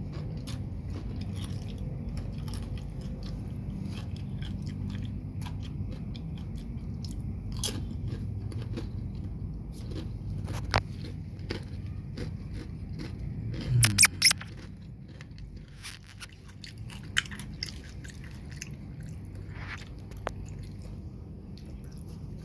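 Crunching and chewing of crisp keripik chips close to the microphone, a run of sharp crunches over a steady low rumble. The loudest crunches come about fourteen seconds in, after which the rumble fades.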